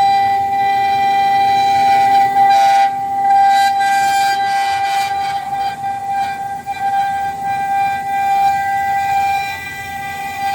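5-axis CNC router spindle running with a steady high-pitched whine as it machines, with bursts of rougher cutting noise about three to five seconds in.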